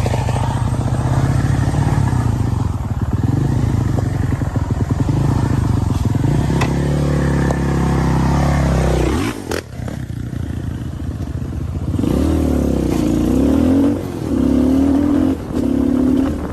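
Dirt bike engine running after being kick-started, its note sagging and falling away about nine seconds in, then revved in several short blips near the end.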